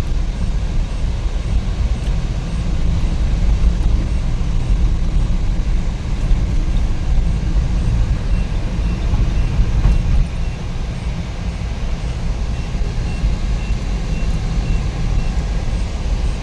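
Steady in-cabin engine and road rumble of a Suzuki DA64V van cruising on the highway under its freshly rebuilt K6A 660 cc three-cylinder engine, which is running with no strange noises. The rumble eases a little about ten seconds in.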